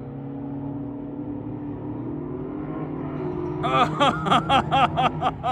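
A car engine running steadily at low revs. From about three and a half seconds in, it is joined by a quick run of short rising-and-falling pitched sounds, about five a second.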